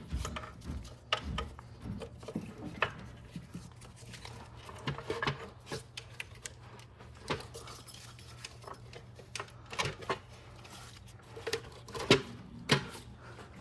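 Hand work setting an intake manifold onto the cylinder head and pushing a wiring harness aside: irregular light clicks, taps and knocks of parts being handled and seated.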